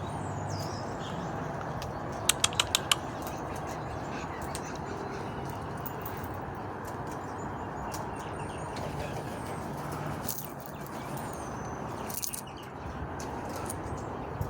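Steady outdoor background noise with faint bird sounds, broken about two seconds in by a quick run of five sharp clicks.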